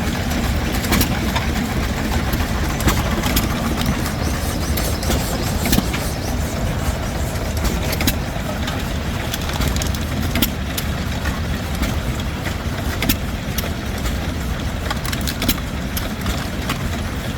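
A small 1.5 hp John Deere hit-and-miss stationary gas engine running a sheller. Sharp exhaust pops come at uneven intervals over a steady low rumble of running engines.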